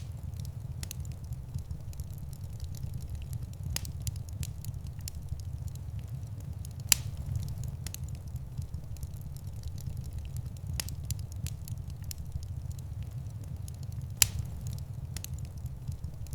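Wood fire crackling in a fireplace: scattered sharp pops and snaps over a steady low rumble, with two louder pops, one about seven seconds in and one about fourteen seconds in.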